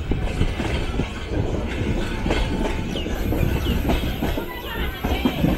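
Passenger train running along the track, heard from an open coach doorway: a steady rumble with the wheels clacking irregularly over the rail joints.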